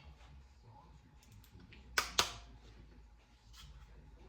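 Two sharp metallic clicks about two seconds in, a fifth of a second apart, from a small wrench on metal as a tight 10 mm bolt on an LS engine is worked loose. Otherwise only a faint low hum.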